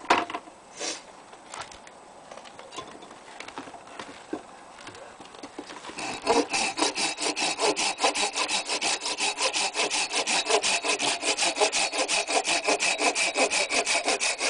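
A couple of light knocks on wood, then about six seconds in a hand saw starts cutting through a log of green, frozen maple, in a fast, even run of rasping strokes.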